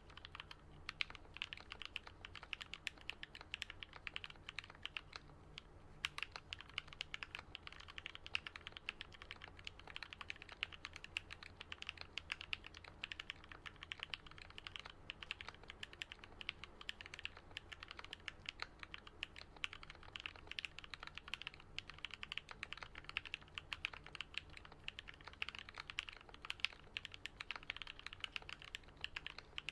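Continuous fast typing on a Switch Couture Alice custom mechanical keyboard. It is fitted with Gateron Yellow linear switches that are lubed and filmed, Artifact Bloom BoW keycaps and lubed Durock stabilizers, and each keystroke lands with a soft "thock". The keystrokes pause briefly about six seconds in.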